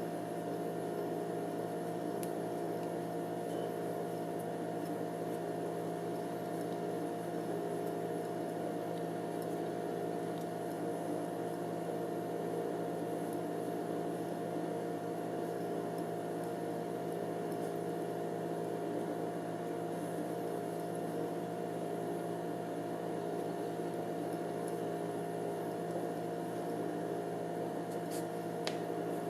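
Hand-spun gyroscope whirring steadily: a constant hum of several steady pitches that holds the same speed throughout.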